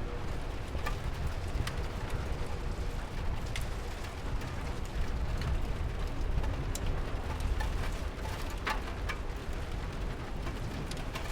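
Steady rain with scattered sharp drops tapping, over a low rumble.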